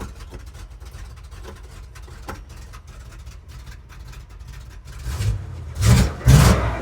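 Camper truck's V8, transplanted from a 1973 Plymouth Road Runner, idling steadily after a long lay-up, then revved briefly twice near the end.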